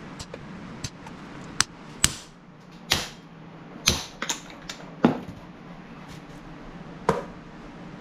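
Sharp metal knocks, about eight irregular strikes, as a steel door hinge held in a vise with its spring compressed is tapped to work the hinge arm free.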